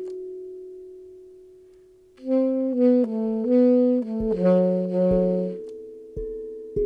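A saxophone plays a slow phrase of about six short stepped notes over the fading ring of a steel tongue drum note. Near the end the tongue drum is struck a few times, its notes ringing on.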